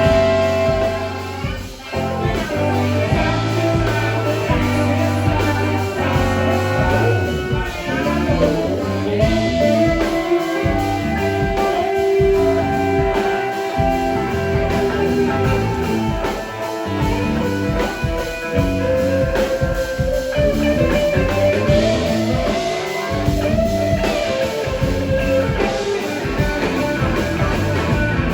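Live blues-rock band playing: electric guitar over bass and drums, with long held melody notes.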